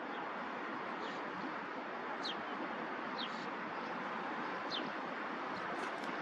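Steady outdoor rushing noise, with a bird giving short, high chirps that fall in pitch about once a second.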